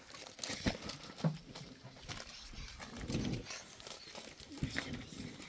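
Farm animal sounds with scattered short knocks and clatter.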